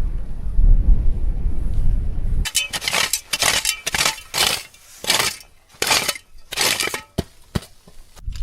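Low rumble, then from about two and a half seconds in a run of harsh crunching, scraping strokes, about one and a half a second, as work goes on to reinforce a tent in snow.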